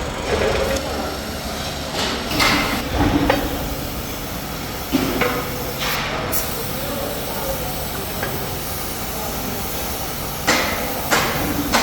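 Irregular metal knocks and clanks from metalworking over a steady workshop background noise, with a cluster near the start and two sharp knocks near the end.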